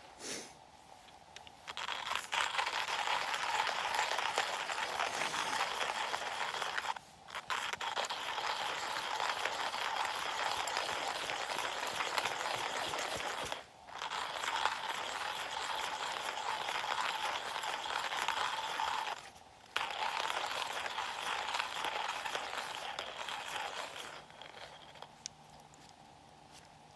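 Hand-cranked coffee mill grinding coffee beans: a continuous gritty crunching that stops briefly three times and ends a few seconds before the end.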